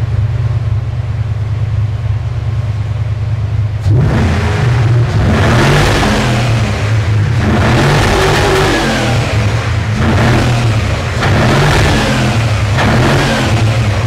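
Mercedes SEC engine running through an aftermarket exhaust: a steady deep idle, then from about four seconds in it is revved repeatedly, each blip rising and falling back.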